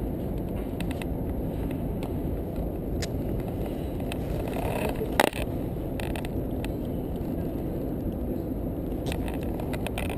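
A vehicle engine rumbling steadily, with a single sharp click about five seconds in.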